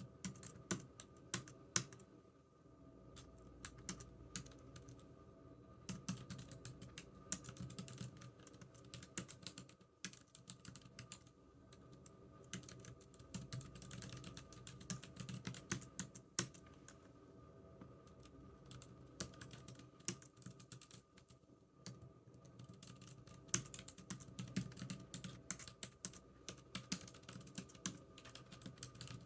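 Computer keyboard typing in runs of quick keystrokes, broken by a few short pauses.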